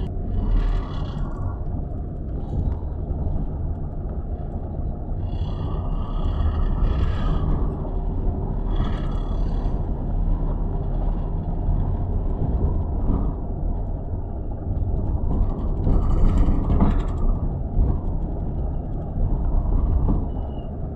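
City street traffic: a steady low rumble of passing vehicles, with a few louder swells as vehicles go by, the loudest about two thirds of the way through.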